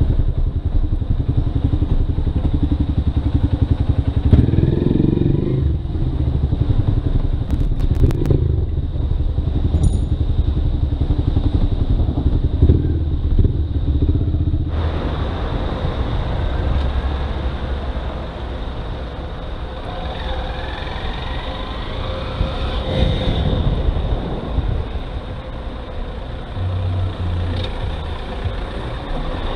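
Motorcycle engine running, heard from the rider's onboard camera, with dense low engine pulsing throughout. About halfway through, a steady hiss of road noise joins it.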